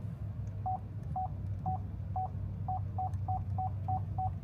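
A row of short, identical electronic beeps, about ten in all, first about two a second and then about three a second. They sound over the low, steady rumble of the car's interior.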